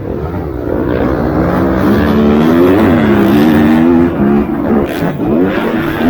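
Several MX2 motocross bikes racing, their engines revving up and down through the gears, loudest about halfway through as they pass close, then dropping back and picking up again.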